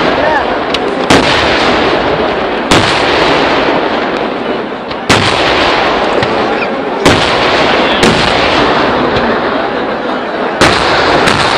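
Kerala temple fireworks (vedikkettu) going off in a dense, unbroken barrage of explosions. About six louder, sharper bangs stand out every second or two.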